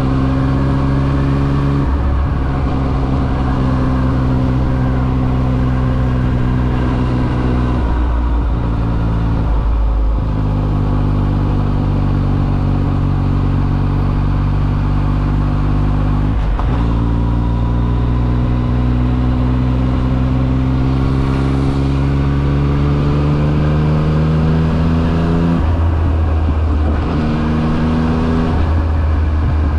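Yamaha XSR900's three-cylinder engine pulling under way, its pitch climbing slowly and then dropping at each upshift, about six shifts in all.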